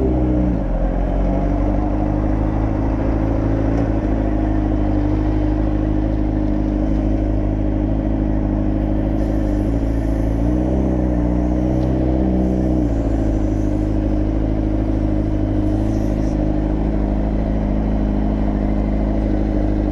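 Motorcycle engine running steadily while riding. Its pitch drops right at the start, rises briefly about ten seconds in, then settles back to the same steady note.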